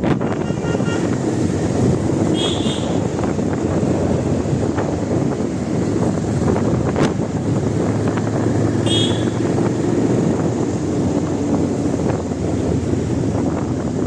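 Steady, loud rumbling noise of wind buffeting the microphone, with two brief high chirps a few seconds apart.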